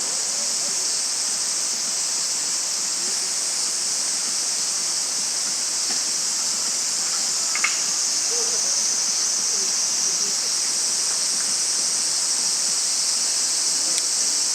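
Steady high-pitched insect chorus, with one sharp snap about seven and a half seconds in.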